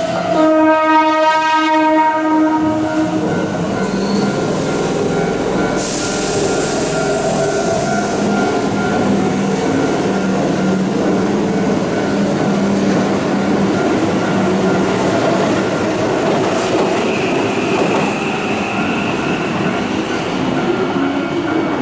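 Keihan electric train horn sounding one steady blast of about two and a half seconds. It is followed by a train's traction motors and wheels running on the rails as it pulls through the station, with a steady low hum. A thin high squeal enters near the end.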